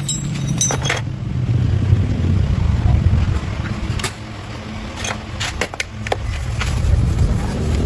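Restored 1967 Honda external-clutch motorbike's small engine catching and running, its level rising and falling as it is revved, with a few sharp clicks.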